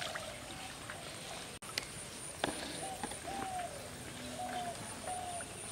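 Outdoor rural ambience: a bird calling with a string of short, slightly falling notes, over a faint high, pulsing insect chirp, with a couple of sharp knocks about two seconds in.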